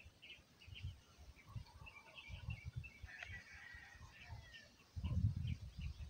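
Wild birds chirping: short high chirps throughout, with a longer, slightly falling call in the middle. A low rumble comes in about five seconds in and is the loudest sound.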